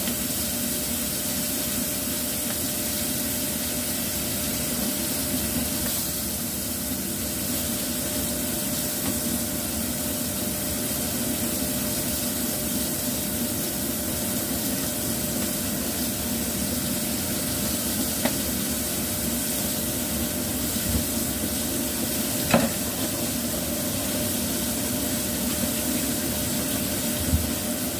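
Floured green mussels frying in oil in a wok, a steady sizzle, with a few brief knocks in the second half.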